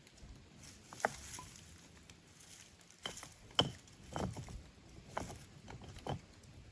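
A few light knocks and rustles at irregular intervals, like things being handled or set down. The loudest knock comes about three and a half seconds in.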